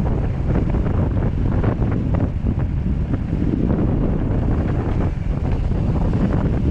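Wind buffeting the microphone of a camera riding along on a mountain bike, with scattered knocks and rattles from the bike over rough trail.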